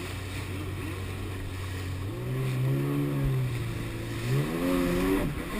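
Stand-up jet ski engine running steadily at low revs, then revving up about two seconds in, easing off, and revving higher again near the end.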